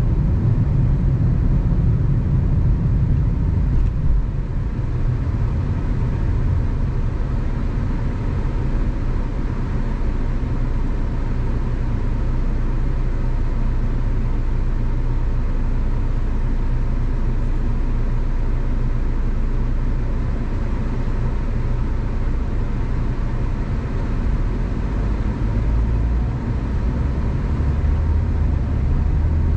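Car driving on a suburban road: steady low rumble of engine and tyre noise. A low hum grows louder near the end.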